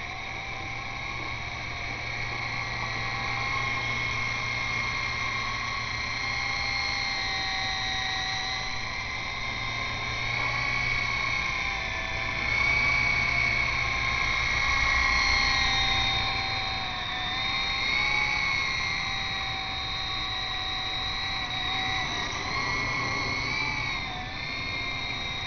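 E-flite Blade CX2 coaxial RC helicopter's electric motors and rotors whining in flight, the pitch rising and falling again and again as the throttle works to hold it against strong wind. A low wind rumble sits underneath.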